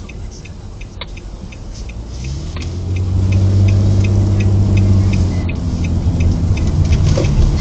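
A vehicle's engine heard from inside the cab, picking up and getting louder about two to three seconds in, over a fast, even ticking of about three or four ticks a second.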